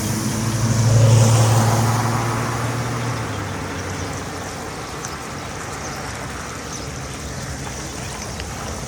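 A motor vehicle or machine engine running with a low hum. It swells about a second in, then eases back to a steady rumble.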